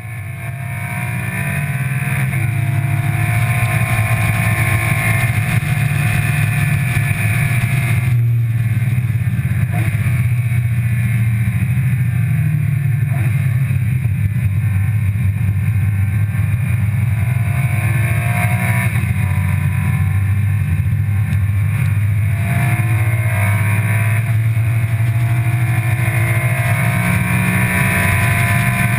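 Car engine running hard on a race track, its pitch rising and falling with throttle and gear changes, over a steady rush of road and wind noise. It fades in at the start and dips briefly about eight seconds in.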